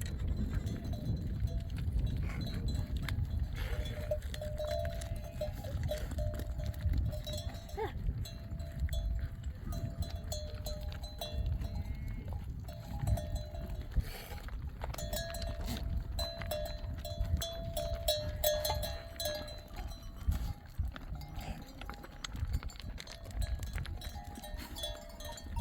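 Livestock bells clinking and ringing on and off as a flock moves, over a steady low rumble.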